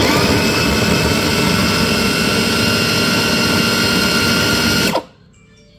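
Electric kitchen blender motor running at full speed, pureeing onion and tomato, starting abruptly and cutting off about five seconds in as the motor spins down.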